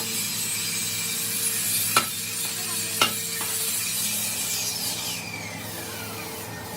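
Workshop work noise: a steady scraping, rubbing sound with two sharp knocks about a second apart, and a falling whine near the end.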